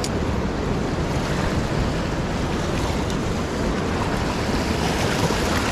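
Steady rushing of a fast, swollen river running high, a continuous wash of water noise.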